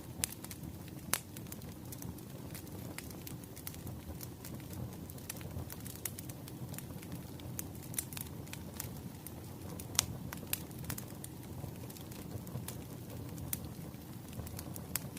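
Wood fire burning, with a steady low hiss of flames and many sharp, irregular pops and crackles of burning logs, a few louder snaps among them.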